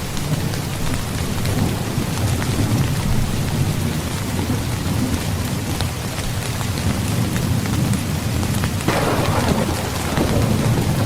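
Steady rainfall over a continuous low rumble of thunder, with a sudden louder burst of thunder about nine seconds in that fades out.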